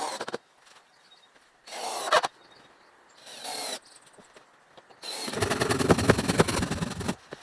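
A tool working wood: three short rasping strokes, then a louder stretch of about two seconds of rapid rattling strokes near the end.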